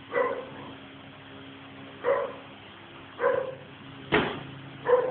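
A dog barking in short single barks, five of them about a second apart. A sharp slap or thud lands about four seconds in.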